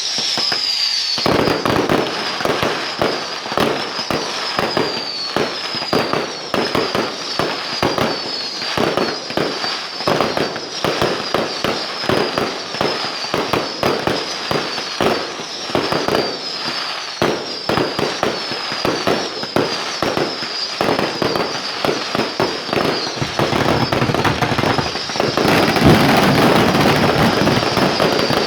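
Fireworks display: a rapid, unbroken run of bangs and crackles, over which a short falling whistle repeats about once a second. Near the end it thickens into dense crackling.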